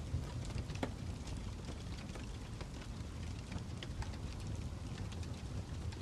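Wood fire crackling: a steady low rumble with irregular sharp pops and snaps.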